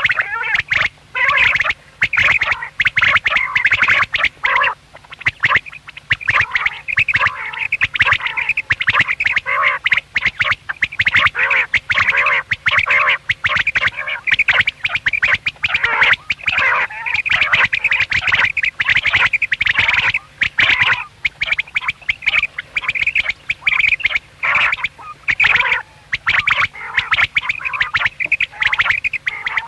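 Quails calling steadily: many short, quick calls that follow one another almost without pause and often overlap.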